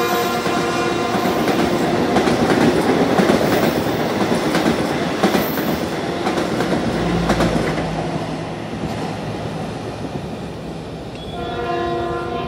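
Passenger train rolling past close by, its wheels clattering over the rails, loudest in the first few seconds and then fading away. A train horn with several tones sounds, held, near the end.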